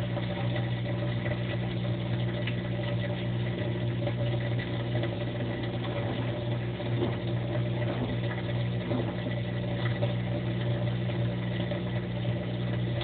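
Drain pump of an LG front-load washing machine running with a steady hum while pumping water out.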